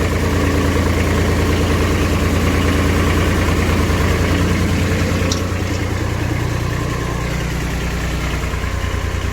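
Diesel engine of a mini dumper running steadily, its note changing about five to six seconds in as the tipper skip is worked.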